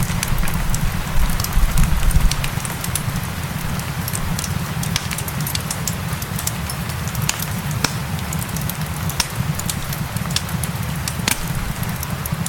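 Wood fire crackling, with scattered sharp pops and snaps over a steady hiss of rain and a low rumble. The rumble is heavier for the first two seconds or so.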